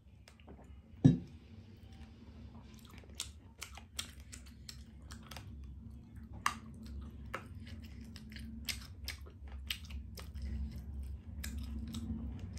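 Close-miked mouth sounds of chewing food, with many sharp wet clicks from about three seconds on. About a second in comes one loud knock, a ceramic mug being set down on the table.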